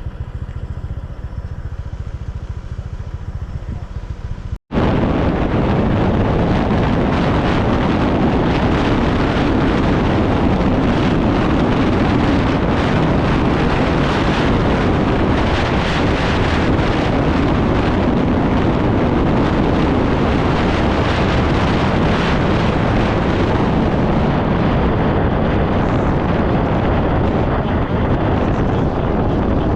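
Scooter engine running with a steady hum for the first few seconds, then after a brief dropout, loud wind rushing over the microphone together with the engine while riding along at speed.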